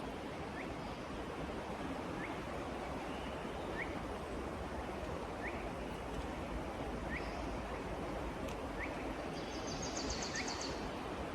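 Forest ambience: a steady rushing hiss, with a bird repeating a short rising chirp about every second and a half, and a brief rapid higher trill near the end.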